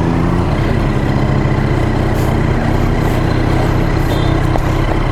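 Triumph Street Triple's three-cylinder engine running at low, steady revs, the note dipping slightly about half a second in.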